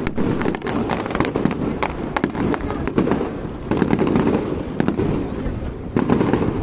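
Fireworks display: a dense, unbroken run of bangs and crackles, several a second, over a steady low rumble.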